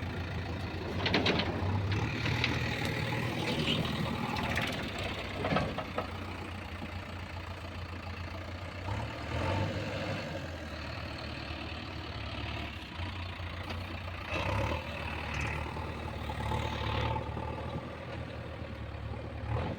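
Heavy diesel engine running steadily, with short scraping and clanking sounds now and then over it.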